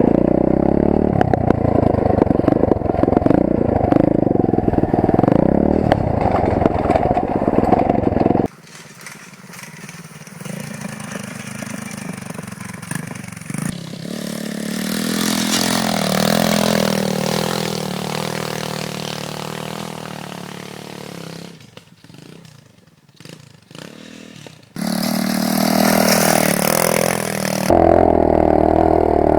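Single-cylinder four-stroke 125cc pit bike engine running and revving, loud and close for the first eight seconds or so. It then cuts to a much quieter engine note that climbs in pitch and falls away again. After a few quiet seconds near the end, the loud close engine comes back.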